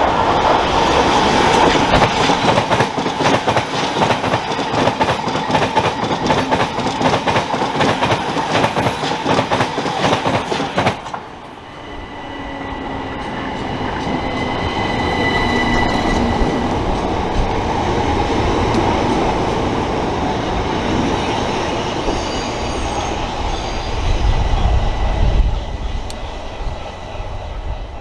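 Electric multiple-unit passenger train passing through at speed, its wheels clicking rapidly over the rail joints, the clatter cutting off suddenly about eleven seconds in. Then a quieter train sound follows, with a steady high whine for a few seconds and a low rumble near the end.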